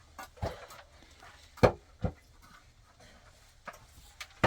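A few sharp knocks: one about half a second in, the loudest about a second and a half in with another just after it, and a strong one at the very end.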